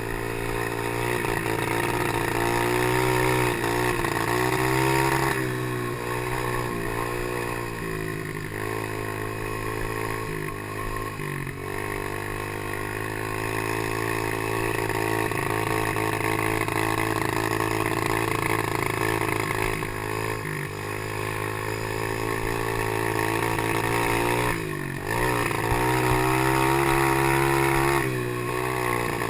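Small engine of a Chinese PY90 90cc geared pit bike being ridden, its revs rising and falling as the throttle opens and closes. The pitch drops briefly several times, about a sixth, a third, two thirds and five sixths of the way in, as the throttle is shut or a gear is changed.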